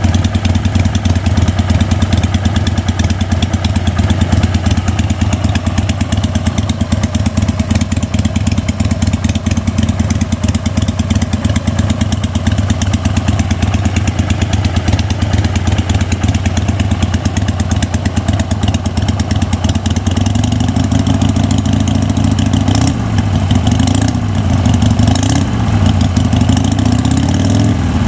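2003 Harley-Davidson XLH883 Sportster's air-cooled 883 cc V-twin engine idling steadily, with a slight wavering in engine pitch over the last several seconds.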